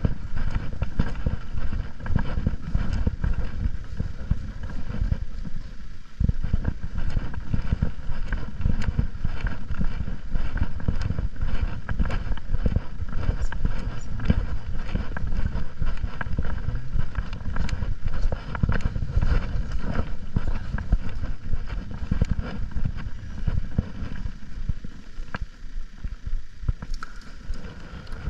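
Motorcycle riding, heard through a GoPro Hero 10's microphone: a loud, constant, uneven wind rumble on the microphone, with engine and road noise underneath.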